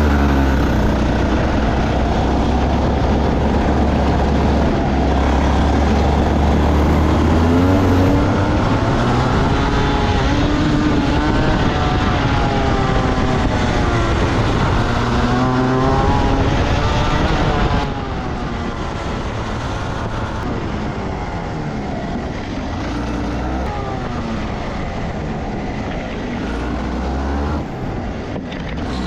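Rotax Max 125 single-cylinder two-stroke kart engine on track, its pitch rising and falling as it revs up on the straights and drops for the corners. It is louder for the first two-thirds and a little quieter after.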